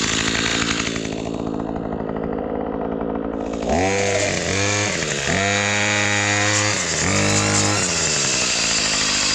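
Gas weed trimmer engine running at speed, dropping back to idle about a second in. From about halfway it is revved up and back down four times, the third rev held for a second or so.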